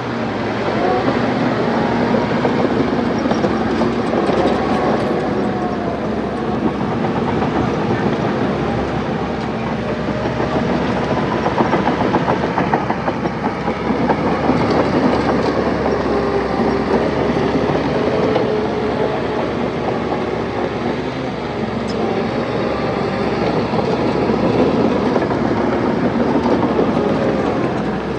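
Crawler bulldozer's diesel engine running under load, its pitch wavering, with the steady rattling clank of the steel tracks.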